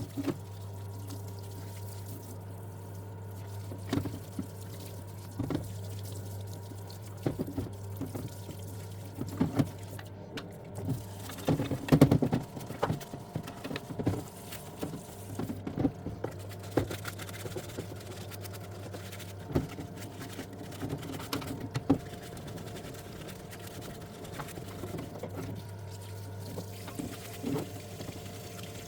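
Parts washer running: cleaning fluid pouring and splashing over a Kawasaki EX250 motorcycle engine case as it is washed, over a steady low hum, with irregular knocks and clatters of the case and tools in the basin.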